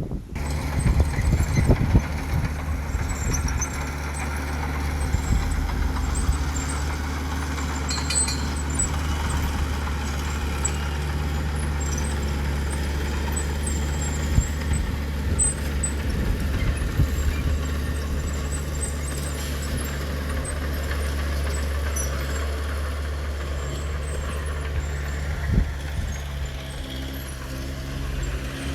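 Heavy diesel earthmoving machine engine running steadily at a constant speed, with scattered faint high squeaks and knocks.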